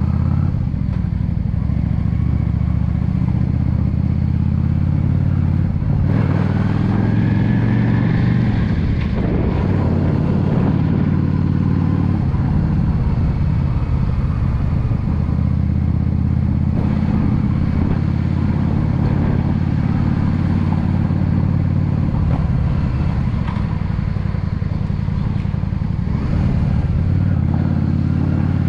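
A 2016 Yamaha V Star 650 cruiser's V-twin engine running steadily while the bike is ridden along the road.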